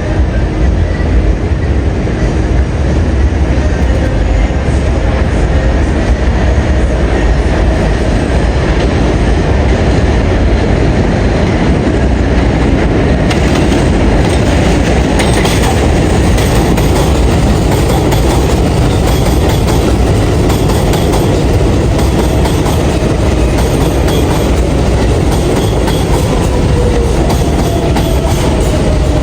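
R142A subway train running at speed, a steady loud rumble with wheels clattering over rail joints.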